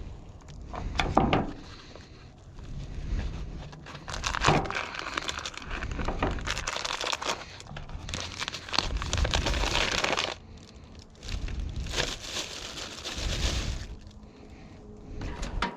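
Crinkly packaging being handled, crumpled and torn in irregular bursts over several seconds while food is being wrapped.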